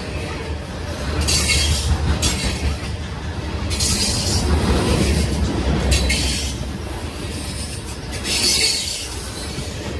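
Train rolling past with a steady low rumble. Four times, high screeching bursts from the wheels rise over the rumble, each lasting up to about a second.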